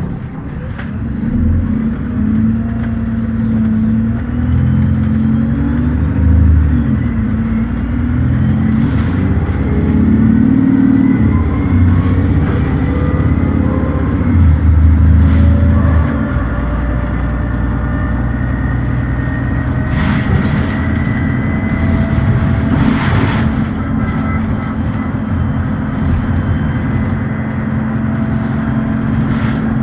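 Dennis Trident double-decker bus's diesel engine and automatic gearbox heard from inside the bus while driving: the engine note rises and shifts for the first half, then settles into a steady drone with a thin transmission whine. Two brief rattles or knocks come about two-thirds of the way through.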